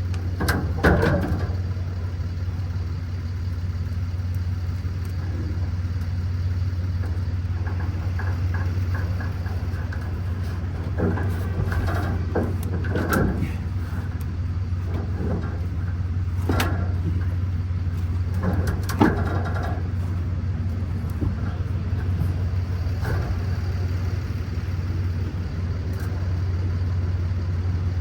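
Steady low hum, with scattered knocks and clanks of metal and tools as a full fuel tank is lowered on a jack; the sharpest knock comes about two-thirds of the way in.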